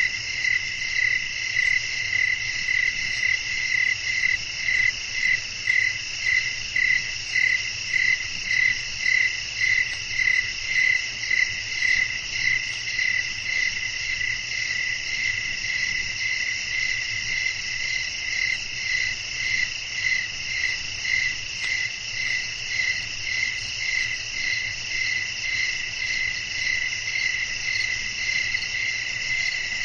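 Night chorus of crickets chirping: a steady high trill with one call pulsing about twice a second, over a low steady rumble of wind.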